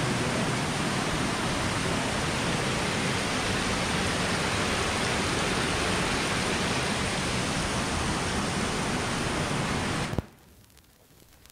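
Steady rush of a river waterfall, a dense even noise that cuts off abruptly about ten seconds in.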